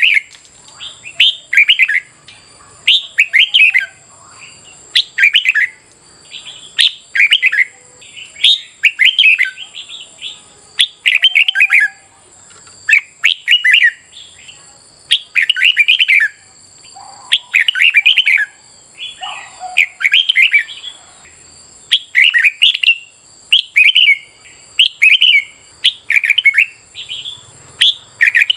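Red-whiskered bulbul song: short, loud warbled phrases repeated about once a second, with a faint steady high tone underneath.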